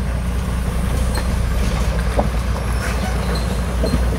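Campfire with meat sizzling over it, crackling with a few sharp pops, over a steady low rumble.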